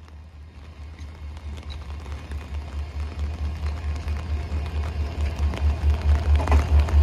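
Diesel locomotive engine running with a low pulsing rumble, about three or four beats a second, growing steadily louder.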